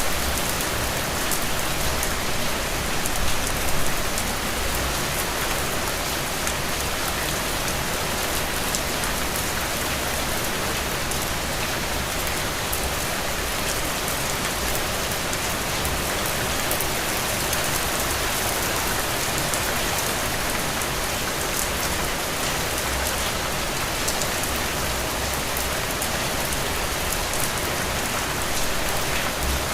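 Heavy rain falling steadily, a dense even hiss with individual drops pattering through it, briefly a little louder about three seconds in.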